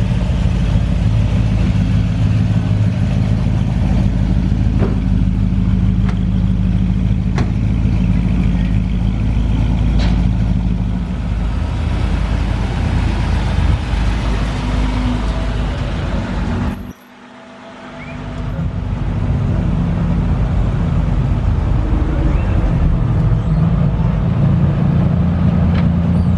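Car engines running with a steady low rumble, broken by a short dip about two-thirds of the way through.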